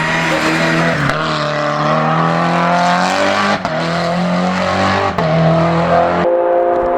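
Race car engine accelerating hard uphill, its pitch climbing through each gear, with quick upshifts about one, three and a half, and five seconds in. Shortly before the end the sound cuts abruptly to a different, higher engine note.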